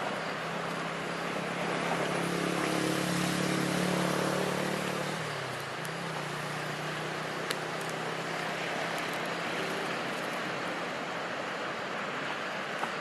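A passing engine hums over a steady wash of noise, growing louder, then dropping in pitch about five seconds in and fading away.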